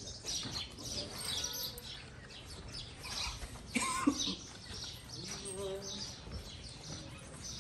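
Many small birds chirping over and over in quick, short calls. A brief louder sound breaks in about four seconds in.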